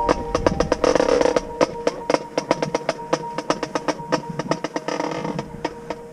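Marching band playing: rapid drum strokes over a steady held note, with two short swells of crashing noise, one about a second in and one about five seconds in, fading out near the end.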